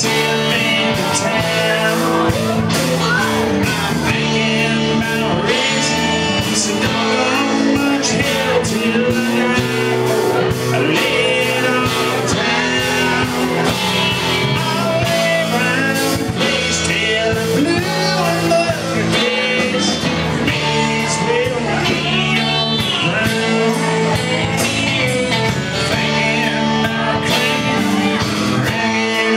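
Live band playing a rock song with guitar and a steady beat.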